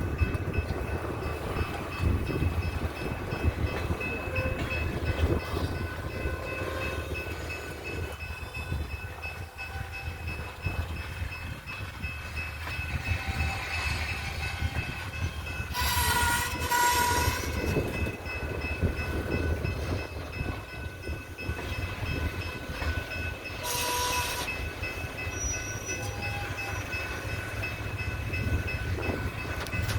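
BNSF freight diesel locomotives running with a steady low rumble. A locomotive air horn gives two short blasts about halfway through, then one more short blast a few seconds later.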